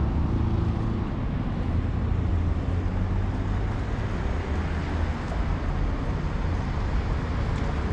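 Old tram running: a steady low rumble and hum from the wheels on the rails and the traction motor.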